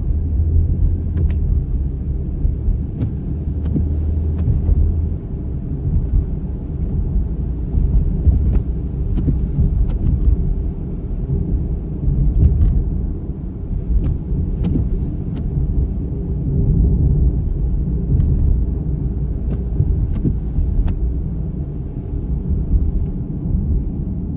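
Steady low rumble of a car driving on wet roads, heard from inside the cabin, with scattered faint ticks over it.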